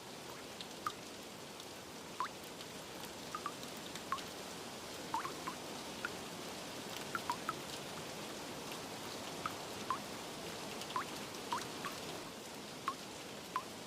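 Steady rain hiss with water drops plinking at irregular moments, about one or two a second.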